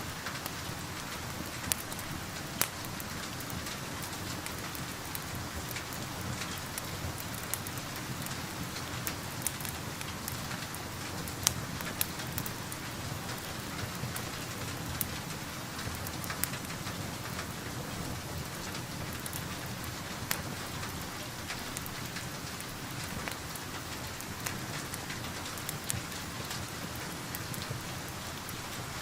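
Steady rain heard from indoors, an even hiss, with sharp, irregular pops and crackles of a wood fire scattered through it.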